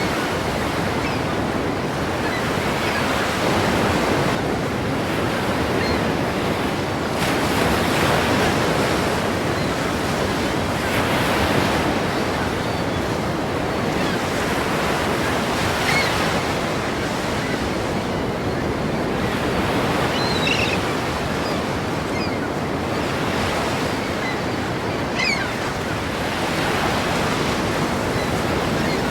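Ocean waves breaking and washing continuously, swelling and easing every few seconds.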